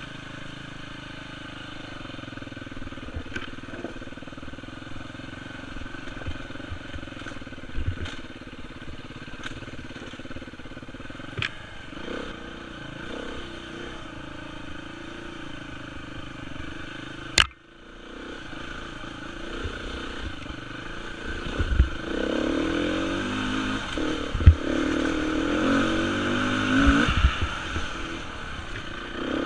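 Beta 350 enduro motorcycle's four-stroke engine running on a rough trail, steady at first, then revving harder with the pitch rising and falling over the second half. A sharp crack about halfway and several knocks later on.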